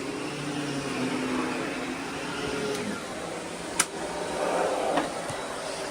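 Miele S8 Cat and Dog canister vacuum running with its power nozzle: a steady motor hum and airflow rush. There is one sharp click a little under four seconds in and a fainter one about a second later.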